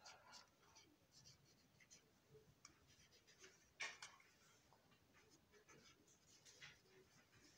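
Faint, irregular scratching strokes of a felt-tip marker drawn across the plastic panels of a model boxcar, with one louder stroke about four seconds in.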